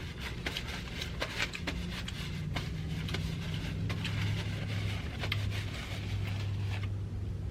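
Close-up chewing and crunching of a fried egg roll, with many short crisp crackles. A low steady hum runs under it from about two seconds in.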